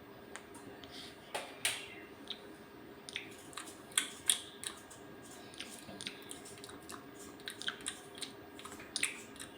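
Irregular small clicks and taps, a few a second with some louder ones, over a faint steady hum.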